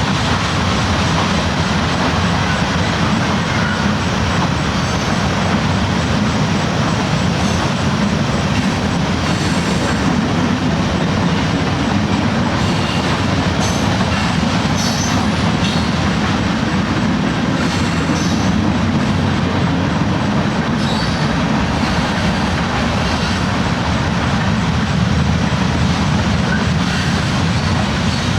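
Train rolling along the tracks in a steady, continuous rumble, with faint short high squeals from the wheels now and then.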